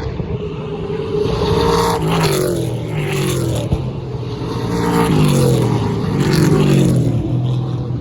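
Drift cars' engines running hard as they go past, twice: the engine note falls as each car passes, about two seconds in and again around six seconds in, with a hiss of tyre and exhaust noise at the loudest moments.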